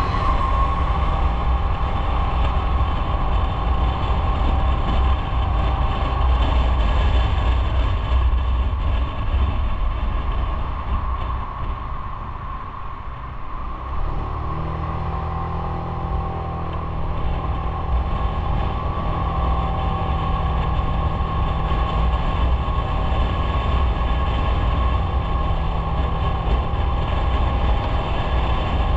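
Motorcycle engine running while riding, with a low rumble from wind and road. It eases off around twelve seconds in and picks up again about fourteen seconds in.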